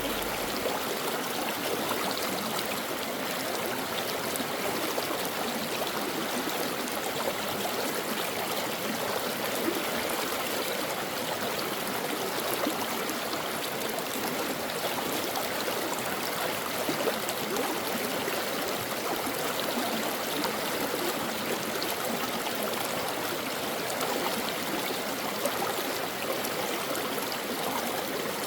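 A stream flowing steadily, an even rush and babble of water with no breaks.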